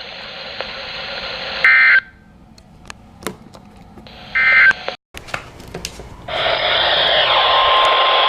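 Weather radio alert data: two short warbling bursts of EAS/SAME digital tones about two and a half seconds apart, the end-of-message signal after a warning, with radio hiss and a few clicks between them. Near the end the hiss grows loud and a steady high tone comes in.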